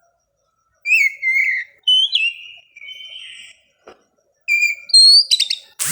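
Oriental magpie-robin (kacer) singing: a run of clear, varied whistled phrases, some sliding in pitch, beginning about a second in.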